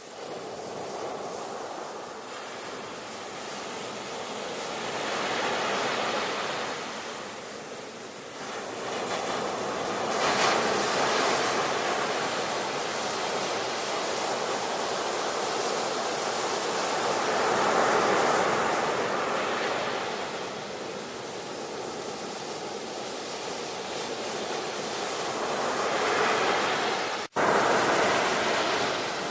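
Ocean waves: a steady rushing roar that swells and eases again every few seconds as the surf comes in. The sound cuts out for an instant near the end, then resumes.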